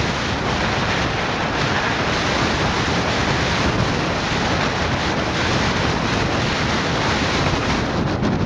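Steady rushing noise of the typhoon-swollen Tama River in flood, mixed with wind buffeting the microphone.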